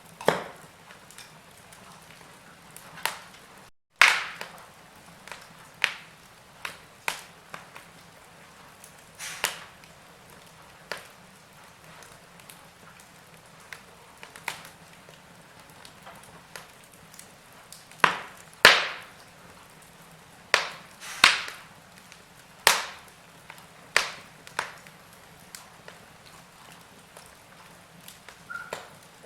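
Wood fire crackling in a fireplace: irregular sharp pops and snaps, some loud and many faint, over a low steady hiss, with a brief cut to silence just before a loud snap about four seconds in.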